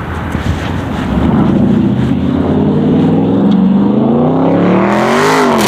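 Car with a loud muffler accelerating hard. The exhaust note gets louder about a second in and climbs steadily in pitch, then rises sharply and dips back near the end.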